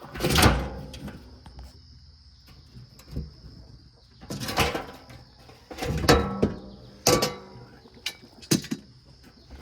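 A series of clatters and knocks from handling chicken feeders and feed containers, about five separate bangs, some with a short ring, over a faint steady high-pitched tone.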